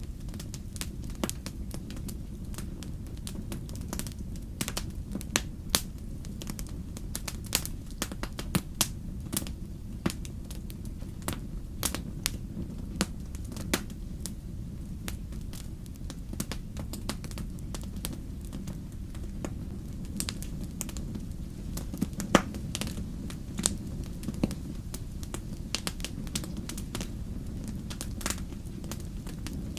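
Wood campfire crackling: irregular sharp pops and snaps from the burning wood over a steady low rush of the flames.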